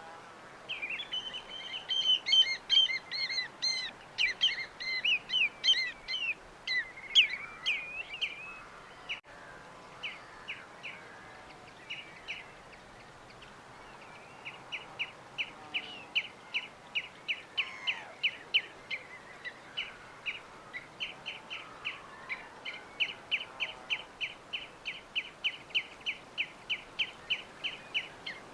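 Small birds chirping: first a busy stretch of overlapping high chirps from several birds, then after a lull one bird repeating a short high chirp about three times a second for the second half.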